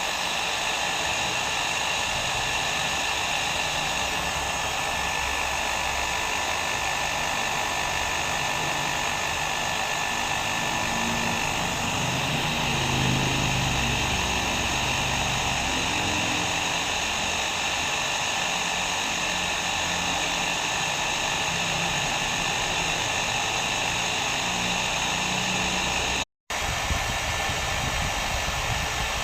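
Hair dryer running steadily: an even blowing noise with a faint steady whine. It cuts out for an instant about 26 seconds in, then carries on.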